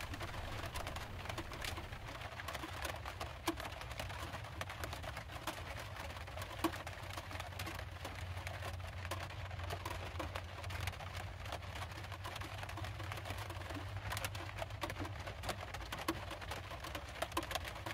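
Rain tapping on a camper van's metal roof, heard from inside: scattered, irregular taps over a low steady hum.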